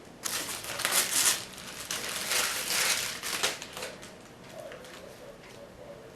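Plastic packaging crinkling and rustling in an uneven stretch as it is handled and pulled off a new robot vacuum, dying away a little under four seconds in.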